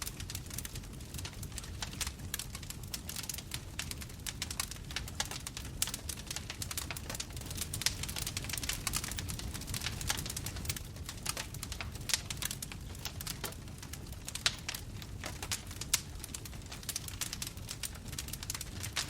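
Bonfire crackling: dense, irregular pops and snaps over a steady low rumble of burning, with a few louder pops scattered through.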